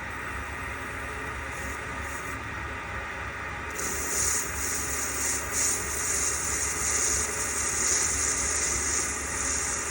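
Metal lathe running with a steady hum. About four seconds in, a hissing, scraping cutting noise starts and rises and falls in waves as the tool feeds into the metal part.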